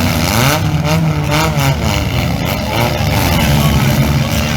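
Demolition derby cars' engines revving and running together, their pitch rising and falling as the drivers accelerate and back off.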